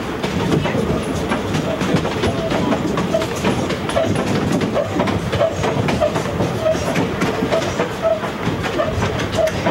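Two-foot-gauge passenger train in motion, heard from aboard the coach: a steady rumble of the car running on the track, with a rhythmic clicking about twice a second.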